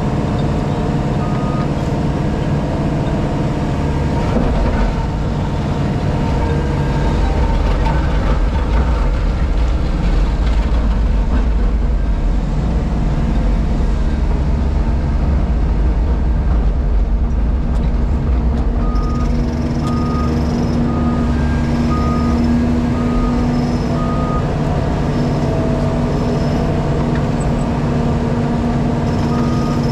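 JCB Pothole Pro's diesel engine running steadily, heard from inside the cab, its low rumble heavier for a stretch in the middle. About two-thirds of the way through, a reversing alarm starts beeping about once a second.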